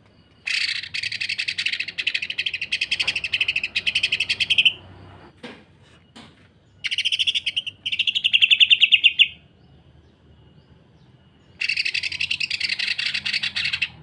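Green leafbird (cucak ijo) singing three bouts of harsh, fast rattling notes in rapid succession, the 'sewing machine' rough song. The second bout swells louder near its end.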